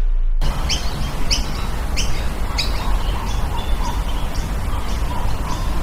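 Small birds chirping: a short, repeated chirp about every two-thirds of a second, over a steady background hiss and low rumble. The chirping starts about half a second in.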